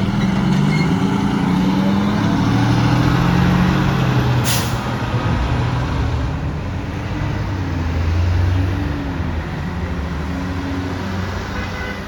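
Fire apparatus pulling out, its diesel engine note shifting in pitch as it moves off, with a short air-brake hiss about four and a half seconds in. The sound eases off toward the end.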